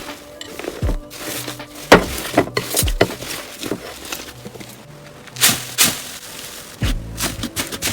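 Slime being squeezed and poked by hand, giving a string of irregular sticky clicks and pops, over soft background music.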